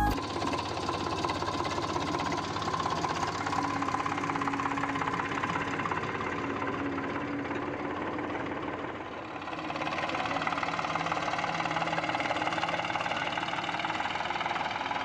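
Eicher 485 tractor's three-cylinder diesel engine running steadily with a fast, even knock, easing off briefly about nine seconds in and picking up again.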